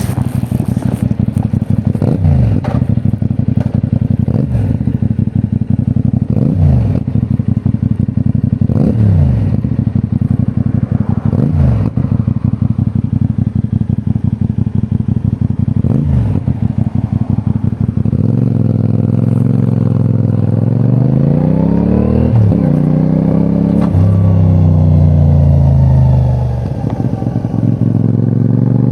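2024 CFMOTO 450NK's parallel-twin engine running low for the first part, with a short rise and fall in pitch every couple of seconds. After that it pulls away and accelerates, the pitch climbing and dropping back at each gear change, then easing off near the end.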